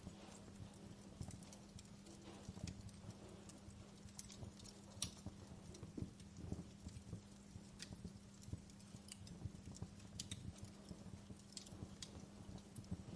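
Wood fire in a fireplace crackling, with irregular sharp snaps and pops, over a faint steady low hum.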